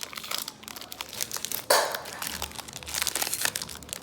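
Wrapper of a Recon basketball card pack being torn open and crinkled by hand, an irregular crackling with a louder rip a little under two seconds in. The pack is stiff and hard to tear.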